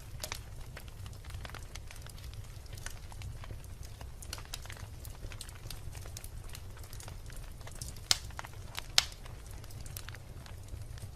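Logs burning in a fireplace, crackling with many small irregular snaps over a steady low rumble. Two louder, sharper pops come about a second apart, two-thirds of the way through.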